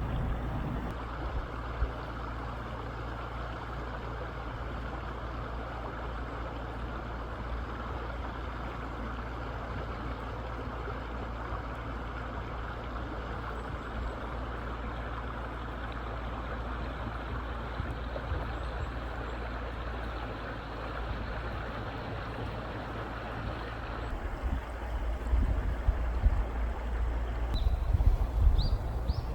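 Mountain stream running steadily over rocks at the edge of forming ice, with wind rumbling on the microphone, gustier near the end.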